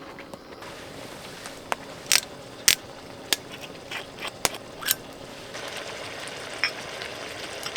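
Firewood burning and crackling, with irregular sharp pops over a steady low hiss.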